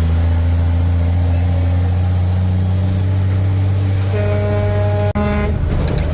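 Truck engine running with a steady low drone. About four seconds in, a vehicle horn sounds for about a second.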